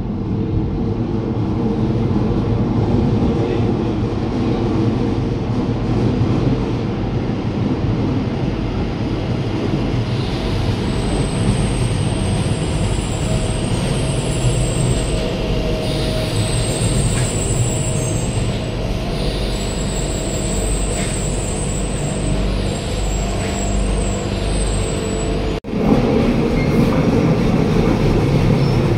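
Tyne & Wear Metro train running into an underground station: a rumble building in the tunnel, then a high-pitched squeal on and off as it runs along the platform. After a sudden cut near the end, another Metro train arrives with a rumble.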